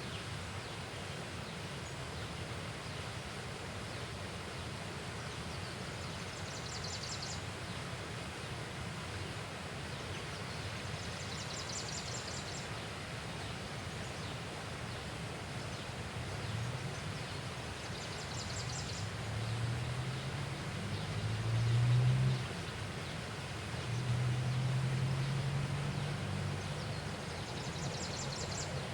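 Steady outdoor riverside ambience with a short, high, pulsed trill from an unseen creature four times, several seconds apart. About two-thirds of the way through, a low drone rises and swells twice.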